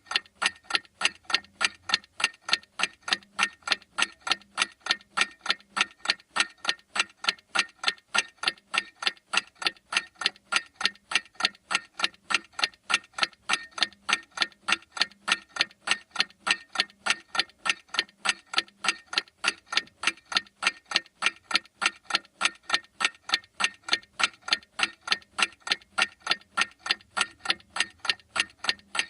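Clock ticking steadily, with sharp, evenly spaced ticks at a constant rate.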